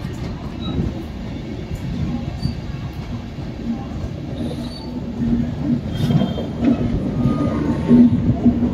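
Rumble of a passenger train's wheels on the rails, heard from aboard a coach as it rolls slowly into the station. About five seconds in, a steady low hum joins the rumble, with a few brief high squeals from the wheels.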